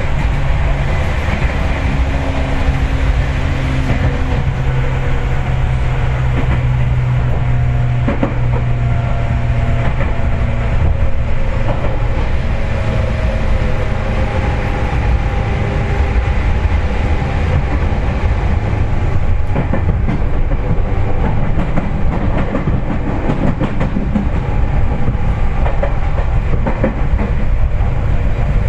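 Running noise heard inside a Seibu 4000 series electric train car: a steady low rumble of wheels on rail, with occasional clicks over rail joints.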